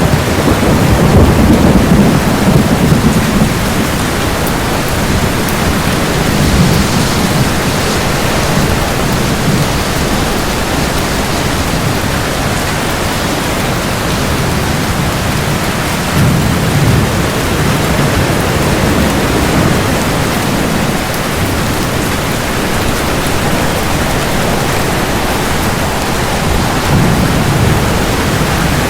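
Steady rain with low rumbles of thunder rolling in three times: near the start, about halfway through, and near the end.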